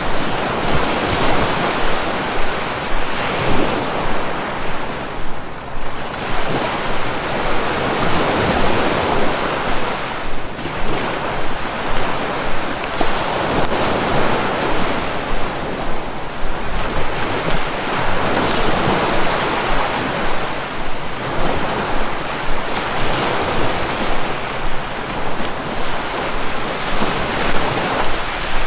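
Sea waves breaking and washing on the shore, a continuous surf that swells and eases every few seconds, with some wind.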